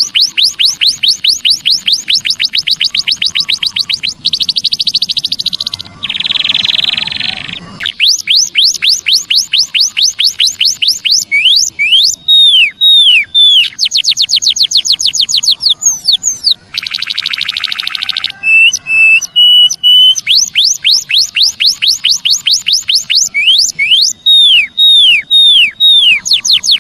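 White-headed munia (emprit kaji) song: long, rapid strings of sharp chirps, about eight a second, broken by several buzzy stretches and a few falling whistles.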